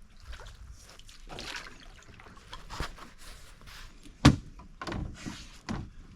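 Water splashing and trickling in short bursts around a canoe, with one sharp knock about four seconds in.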